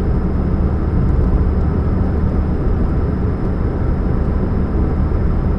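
2013 Chevrolet Spark running with a steady low hum and rumble, a hum the owner puts down to a catalytic converter leak.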